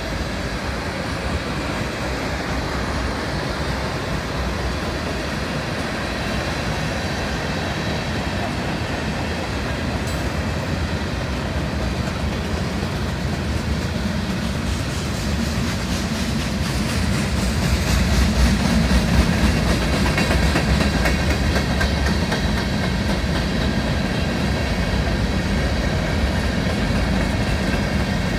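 CSX freight train rolling past at close range, its cars' steel wheels rumbling and clicking over the rails. It grows somewhat louder about two-thirds of the way in.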